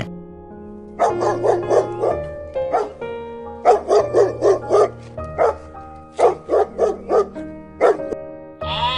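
Dog barking in quick runs of several short barks, over background music.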